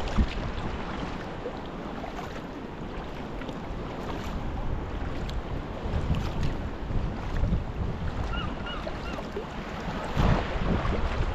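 Sea kayak paddling on the sea: water splashing and washing around the hull, with wind buffeting the microphone in gusts, the strongest about ten seconds in.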